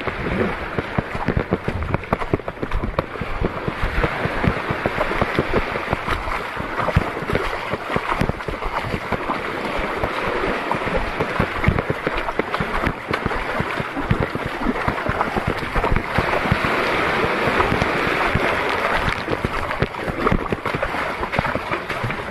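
Steady rush of water and wind buffeting the microphone, with irregular low thumps throughout.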